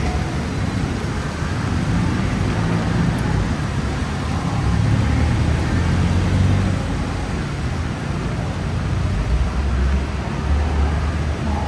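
Steady traffic on a busy city road: engines running and vehicles passing, with a low rumble that swells and fades as they go by.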